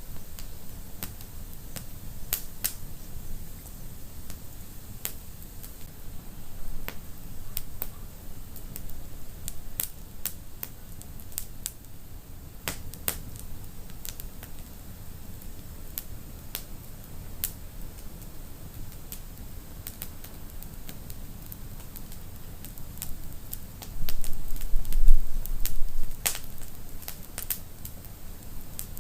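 Wood fire in a fireplace crackling, with irregular sharp pops and snaps over a low rumble. A louder, deeper rumble swells for about two seconds near the end.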